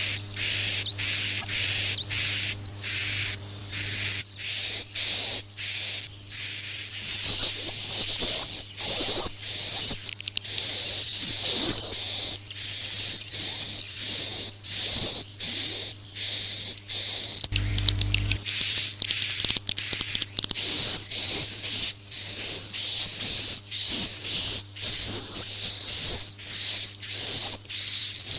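Swiftlets twittering in a dense, continuous stream of short, high, shrill chirps: a swiftlet roosting call ('suara inap') of the kind used by swiftlet farmers to draw birds into a nesting house.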